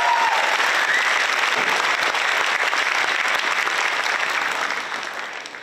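Audience applauding in a hall, the clapping dying away near the end.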